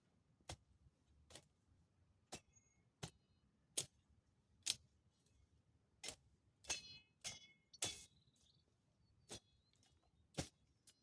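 A series of about a dozen sharp metallic clicks at irregular intervals, roughly one a second, several with a brief ringing tail.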